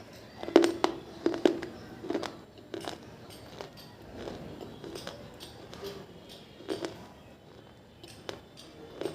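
Water-soaked pieces of baked clay from an earthen diya and clay pot being crunched: a quick run of sharp, crisp snaps in the first second and a half, then slower, softer crunches.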